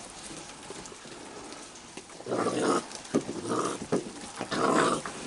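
Raccoons growling in three short bursts, about a second apart, over the steady hiss of heavy rain.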